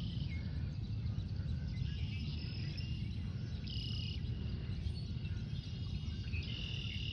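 Outdoor ambience: a steady low background rumble with a few thin, high chirps from birds, about two, four and seven seconds in.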